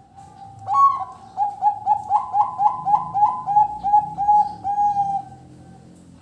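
Zebra dove (perkutut) singing its cooing song: a loud opening note, then a rapid run of about fifteen short coos at roughly four a second, ending on a slightly longer note.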